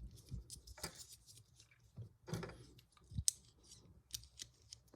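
Lego pieces being handled and pressed together: a string of small, irregular plastic clicks and taps.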